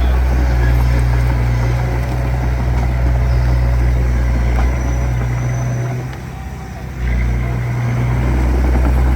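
Diesel engine of a D20P bulldozer running steadily under work. It dips briefly about six seconds in, then picks back up.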